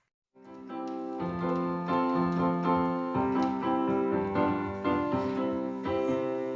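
Piano music: a melody of separate notes over held chords, starting after a brief silence.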